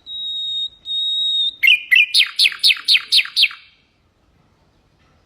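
Common nightingale singing: long steady whistled notes, then a fast run of sharp falling notes, about four a second, that stops a little before four seconds in.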